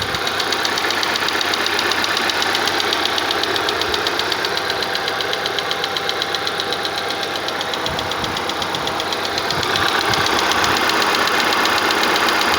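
Haval F7 engine running steadily with a fast, even ticking. The owner complains of knocks from this engine.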